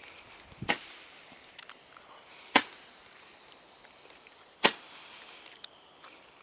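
Fireworks going off: three sharp bangs about two seconds apart, each trailing off briefly, with a few small cracks between them.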